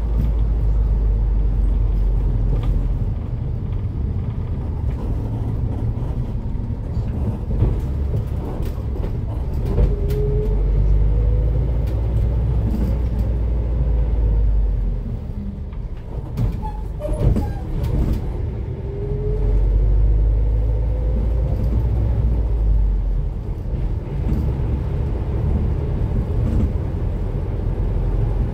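Cummins ISF3.8 four-cylinder turbodiesel of a Daewoo Lestar bus, heard from inside the bus as a steady low engine drone with faint rising whines. The drone eases off a little past the middle, with a few clicks, then builds again.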